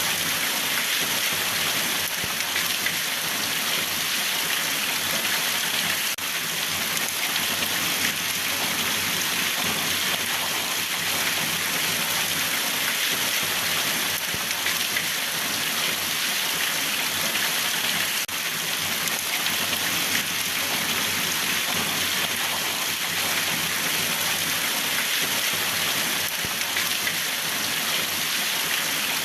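Steady rain falling on a surface, a dense, even patter.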